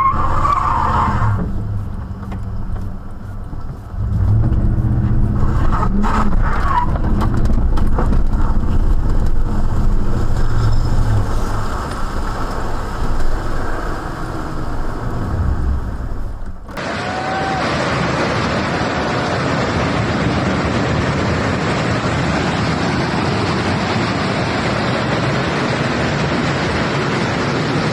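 A car engine running with a low hum that rises and falls slightly in pitch, with a few sharp knocks about six to seven seconds in. About two-thirds of the way through it cuts abruptly to a steady rushing noise.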